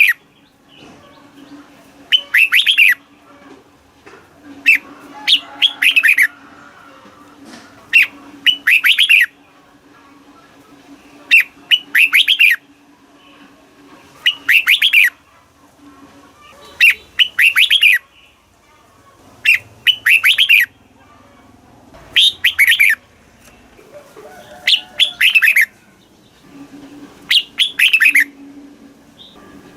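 Red-whiskered bulbul singing: short, loud phrases of several quick notes, repeated every two to three seconds.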